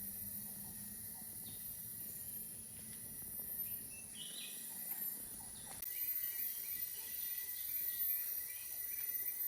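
Tropical rainforest ambience: insects droning steadily at a high pitch, with short bird chirps in between. About six seconds in, the sound changes abruptly and grows a little louder, with a run of quick repeated chirps.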